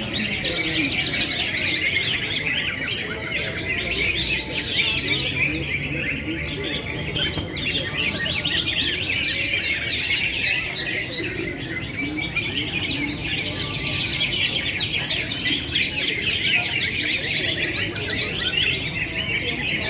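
Many caged songbirds chirping and twittering at once without pause, a dense, overlapping chorus of rapid high notes.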